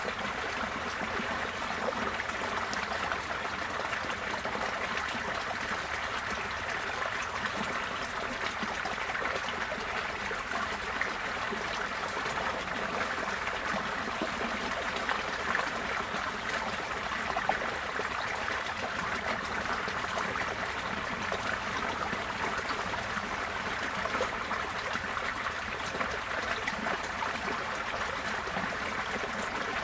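Receding floodwater flowing steadily, a continuous even rush and trickle of running water.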